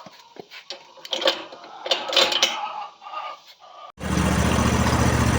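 Scattered metallic clicks and clanks. About four seconds in, a sudden switch to a compact diesel tractor engine running steadily.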